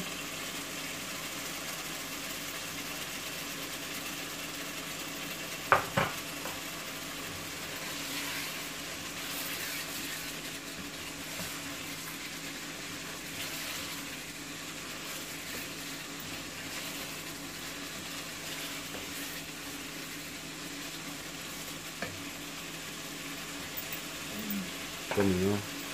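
Potato curry sizzling in a non-stick pot as a wooden spoon stirs it, the masala frying down now that its water has cooked off. One sharp knock about six seconds in.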